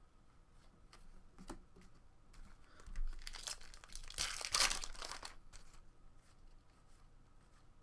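Foil wrapper of a trading card pack being torn open and crinkled: a loud crackling stretch starting about three seconds in and lasting about two seconds, after a few faint clicks.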